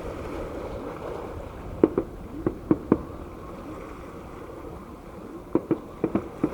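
Fireworks shells bursting at a distance as a series of sharp bangs, about five in quick succession around two seconds in and another five near the end, over a steady low background rumble.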